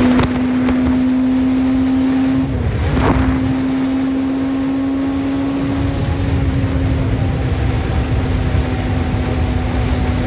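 Sport motorcycle engine running at a steady high note while riding, with wind rumbling on the microphone. About two and a half seconds in, the engine note dips and breaks off briefly, then picks up again.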